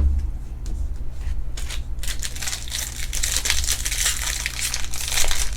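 Crinkling and crackling of a foil trading-card pack wrapper being handled and torn open, getting denser about two seconds in, over a steady low hum.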